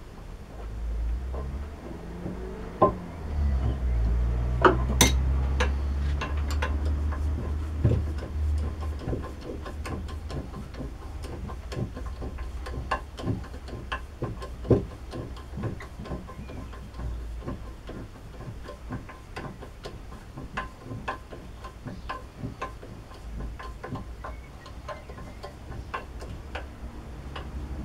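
Many small irregular metal clicks and taps of tools and parts being handled, with a few louder knocks and a low rumble in the first ten seconds.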